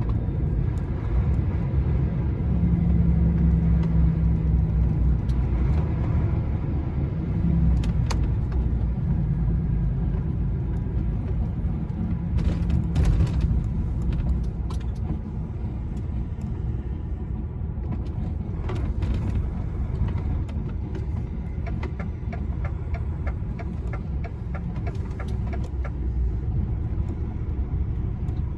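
Lorry's diesel engine running steadily under way with road noise, heard from inside the cab. Scattered clicks and light rattles sound over the drone.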